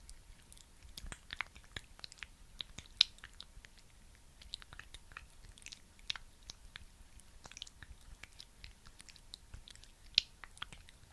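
Close-up sticky skincare sounds: a thick, tacky product worked by hand, giving an irregular scatter of small wet clicks and crackles, with two sharper pops about three seconds in and near the end.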